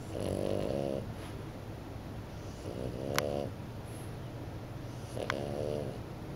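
French bulldog puppy snoring in its sleep: three snores about two and a half seconds apart, each lasting about a second, with a brief sharp click in the middle of the second and third.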